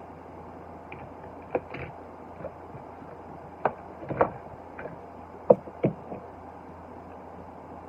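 Handling noise from plastic diecast toy car cases: about six short clicks and knocks, the loudest a little past halfway, over a steady hiss.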